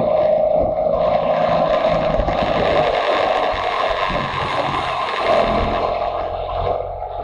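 Motorcycle engine running at fairly steady revs while riding, with wind rushing over it.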